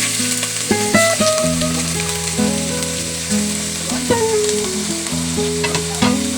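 Food sizzling as it fries in a pan, with a few clicks and scrapes from stirring, under background music with a plucked melody.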